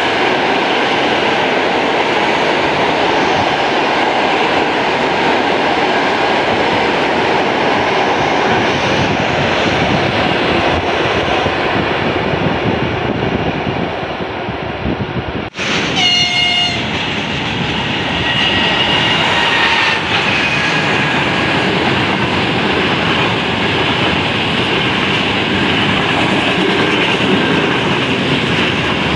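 Passing electric trains: a steady loud rumble and clatter of wheels on rails. About halfway through the sound breaks off abruptly and resumes with a short train horn blast of several pitches at once, and fainter horn-like tones follow over the next few seconds.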